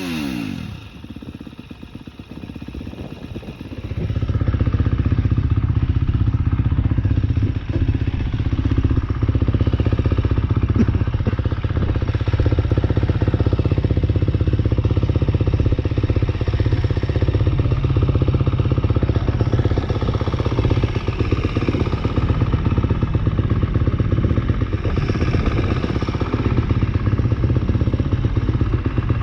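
KTM 250 SX-F single-cylinder four-stroke motocross engine with an Akrapovic Evolution Line exhaust, quieter for the first few seconds, then idling steadily from about four seconds in with no revving.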